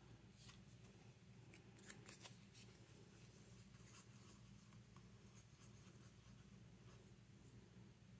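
Near silence: room tone with a few faint clicks and rustles of paper being handled, the clearest about two seconds in.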